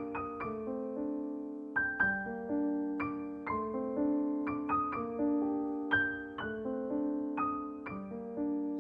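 Background music: a gentle piano melody of single struck notes that ring on.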